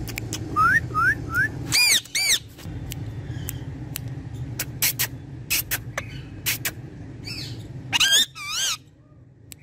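Ringneck parrot whistling and calling: three short rising whistles, then two loud calls about two seconds in, scattered sharp clicks, and two loud wavering calls near the end.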